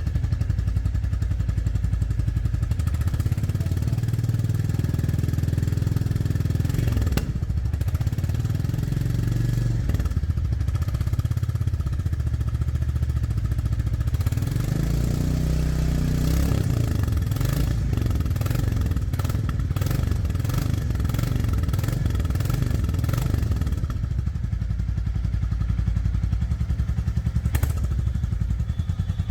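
Exhaust of a 2024 Royal Enfield Bullet 350's 349 cc single-cylinder engine, running steadily with an even beat of firing pulses. The pitch shifts a little a few times along the way.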